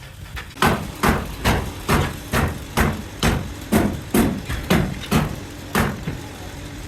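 A hammer striking about a dozen times at an even pace of roughly two blows a second, then stopping, over a steady low machine hum.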